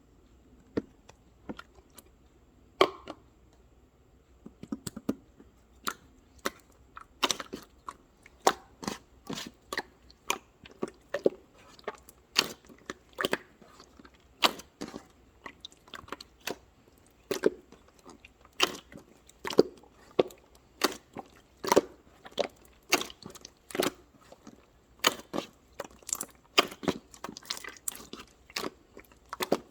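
Close-up crunchy chewing: a run of sharp crunches, a few at first, then about two a second from around seven seconds in.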